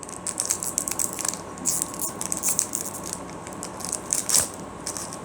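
Foil booster pack wrapper crinkling and crackling in rapid irregular bursts as it is handled and pulled at to tear it open by hand.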